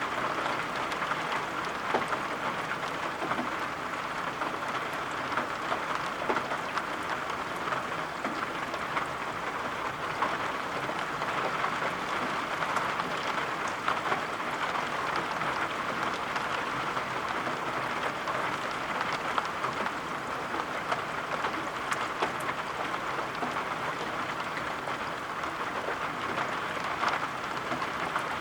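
Steady rain, an even hiss with many faint drop ticks scattered through it.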